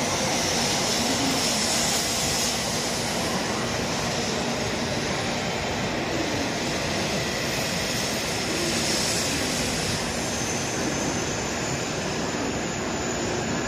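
Shinkansen train moving along the station platform: a steady rushing noise with a high hiss.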